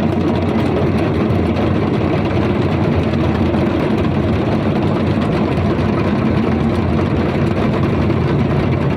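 A vehicle engine idling steadily and loudly close by, holding an even speed throughout.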